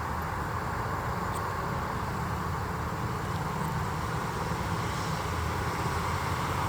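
Steady rumble of road vehicles, engine and tyre noise, with no siren.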